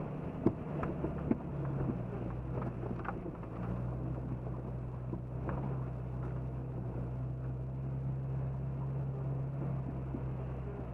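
Jeep Cherokee XJ engine running steadily at low revs while driving through floodwater, its note dipping slightly about two seconds in. A few sharp knocks sound in the first second and a half.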